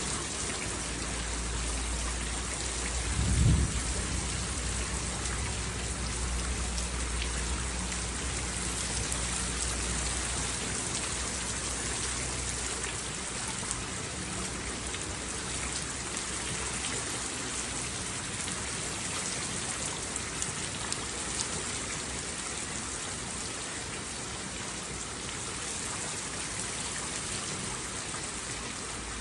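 Steady rain falling, with a thunderclap about three and a half seconds in whose low rumble rolls on and fades out by about thirteen seconds.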